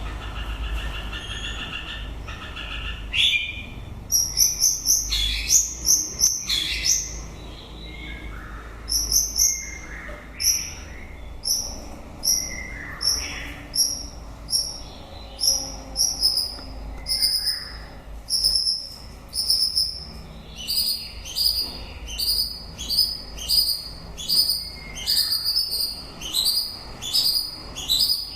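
White-rumped shama singing: a quick buzzy trill at first, then loud clear high whistled notes, and from about two-thirds through a fast run of repeated notes, about one and a half a second.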